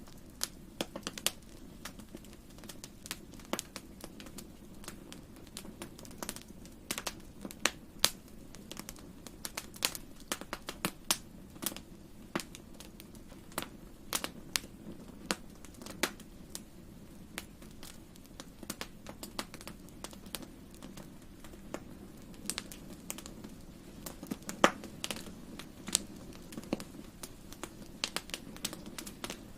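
Fireplace fire crackling, with irregular sharp pops several times a second over a steady low background noise.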